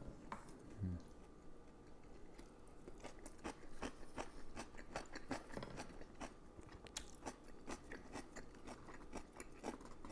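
A person chewing crispy deep-fried pork cutlet close to the microphone: a run of faint, irregular crunches and mouth clicks.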